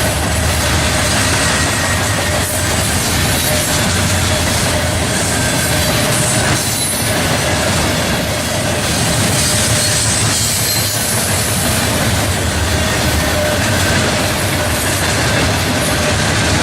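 Norfolk Southern freight cars rolling past close by: a steady loud rumble and clatter of steel wheels on rail, with a thin steady squeal from the wheels.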